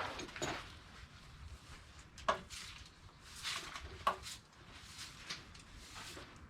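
Handling noises under a car during an oil change: a series of short swishing strokes with two sharp knocks, about two seconds in and again about four seconds in.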